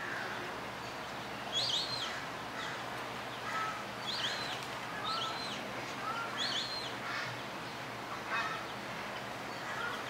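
Birds calling: short high chirps, mostly in pairs, repeated every second or so, with lower single notes between them, over a steady background hiss.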